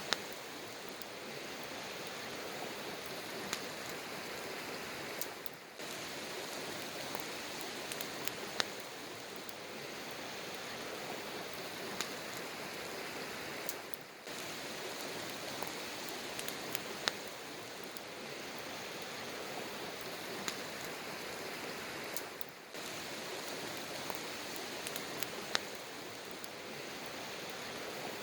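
Campfire burning: a steady hiss with scattered sharp pops and crackles. The sound dips briefly three times.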